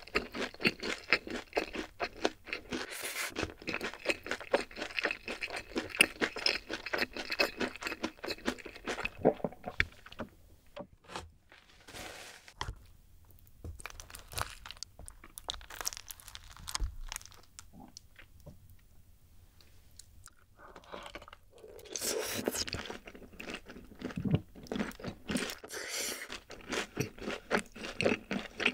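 Close-miked chewing of rosé tteokbokki and boneless fried chicken, with rapid, crunchy, wet mouth sounds. It goes much quieter for several seconds in the middle while the next piece is picked up, then the chewing starts again.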